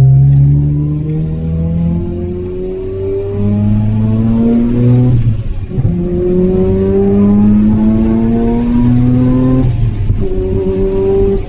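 Mazda RX-7 FD3S's rotary engine accelerating hard at full throttle, rising steadily in pitch through two upshifts about five and ten seconds in, with a high whine climbing alongside it.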